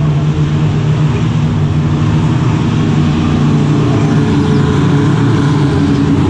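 GT3 race car engine heard from on board, running at steady moderate revs, its pitch creeping up slightly about halfway through.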